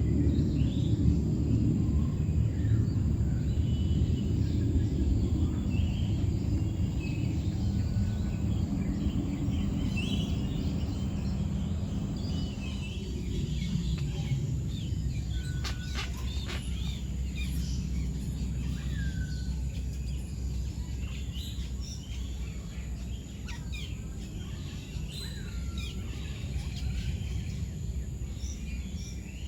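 Birds chirping and calling now and then over a steady low rumble of background noise, which eases off a little about halfway through.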